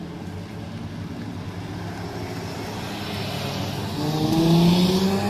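Car engine running steadily, then accelerating near the end with its pitch rising.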